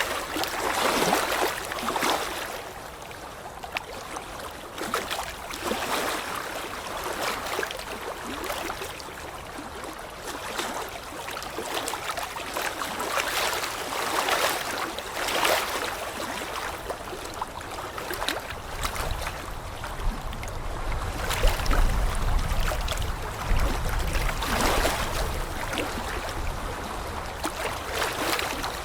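Running water splashing and gurgling, with surges every second or two. A low rumble runs underneath from a little past the middle until about three-quarters of the way through.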